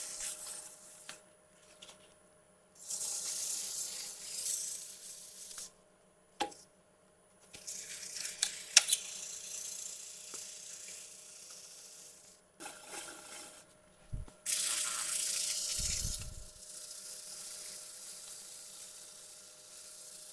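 Sandpaper held against a magnolia bowl spinning on a wood lathe: five hissing sanding passes, each a few seconds long with short pauses between, over a faint steady hum. A couple of sharp clicks come near the middle.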